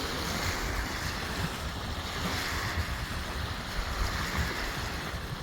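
Wind blowing across the microphone: an uneven low rumble over a steady rush.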